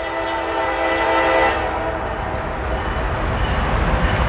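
CSX freight locomotive's air horn holding a steady multi-note chord that fades out about a second and a half in, followed by the low rumble of the train rolling past, growing louder.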